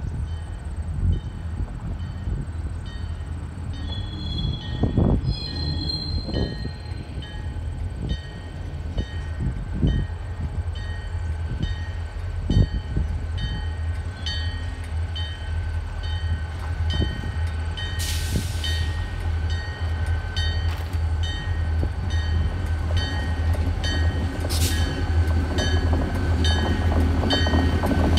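Train rolling by on the rails: a steady low rumble from the locomotive and cars, with irregular clanks and knocks from the wheels and couplers, growing louder toward the end.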